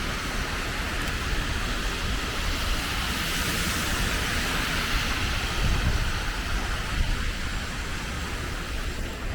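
City street traffic: a steady hiss of passing vehicles with a low rumble underneath, swelling a little around the middle and easing off near the end.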